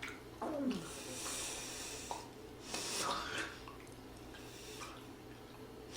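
A person's short vocal sound falling in pitch, followed by two long, airy breaths.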